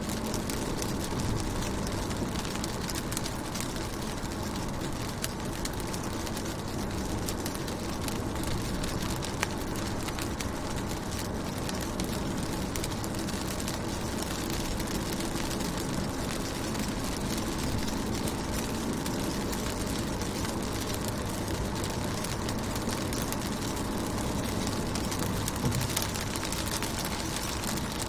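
Rain falling on a car's window: a steady patter made of many small drop ticks over a low rumble.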